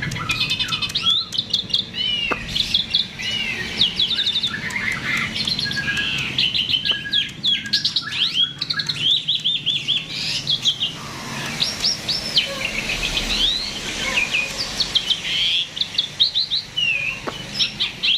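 A jalak (starling) in full song, a lively unbroken run of quick chirps, whistled sweeps and trills.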